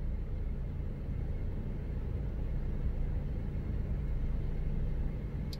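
Steady low rumble of a car heard from inside the cabin, with a faint constant hum: the vehicle's engine running.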